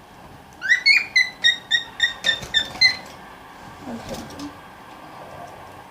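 Small pet parrot calling: a quick run of about ten sharp, repeated chirps, roughly four a second, lasting about two seconds.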